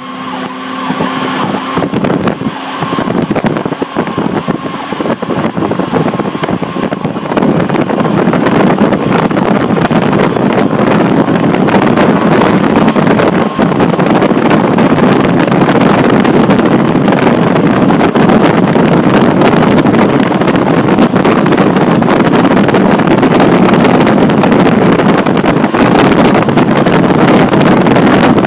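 Fire truck under way, heard from inside the cab: engine and road noise that builds over the first several seconds, then holds loud and steady as the truck runs at speed.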